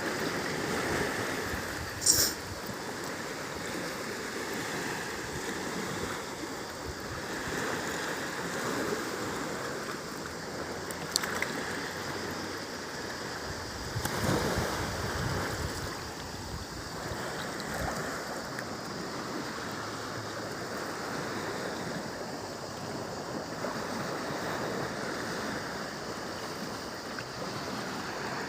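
Small sea waves washing steadily on a beach, swelling a little louder about halfway through. A brief sharp click comes about two seconds in, with a fainter one later.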